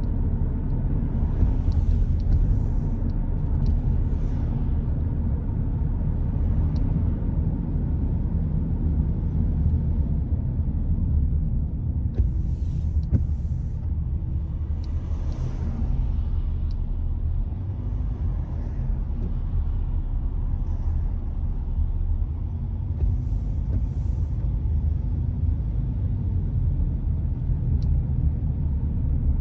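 Steady low rumble of a car driving on a wet road, with a brief hiss rising and fading several times, as of tyres or passing traffic on wet tarmac.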